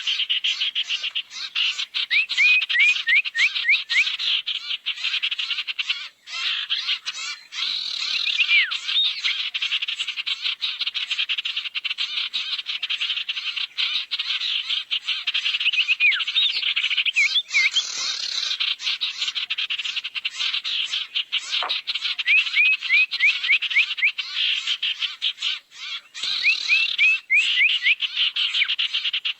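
Lure recording of sirtu birds calling: a continuous fast, rattling chatter, broken every few seconds by quick runs of short sweeping whistled notes.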